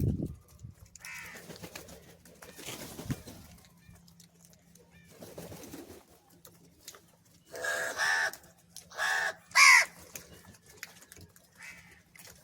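Crows cawing. A few faint calls come first, then four loud, harsh caws in quick succession about eight seconds in, the last the loudest.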